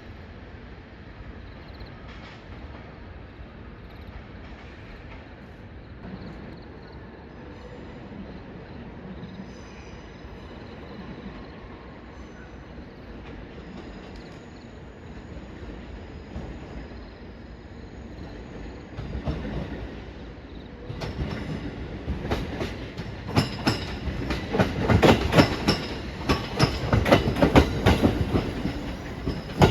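Train running on the rails with a steady rumble. From about twenty seconds in, the wheels clatter over rail joints in a dense run of clicks that grows much louder.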